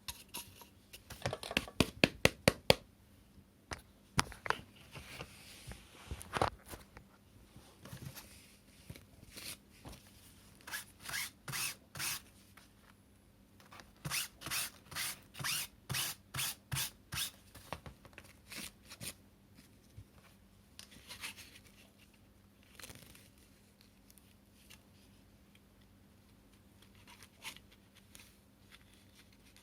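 Cyclone stick vacuum's dust box and brush head handled and cleaned by hand: runs of short, quick scraping and rubbing strokes with occasional clicks, about two to three strokes a second in the busier stretches.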